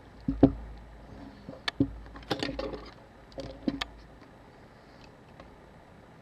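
Light clicks and taps of small tools against a camera body during disassembly, a few scattered over the first four seconds.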